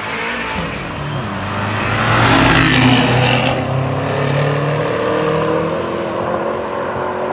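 Two BMW sedans, one a stage-1 tuned F10 550i with its twin-turbo V8, accelerating hard past side by side. The sound is loudest as they go by about two to three seconds in, then the engine note climbs steadily as they pull away.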